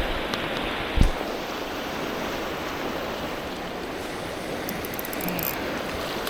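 River water rushing in a strong current, a steady noise with no break, with one short low thump about a second in.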